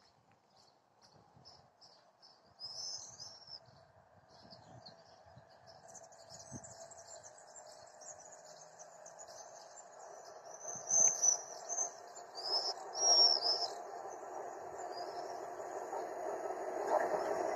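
Small birds chirping, with the low hum and rumble of an approaching train growing steadily louder from about six seconds in as it nears the platform.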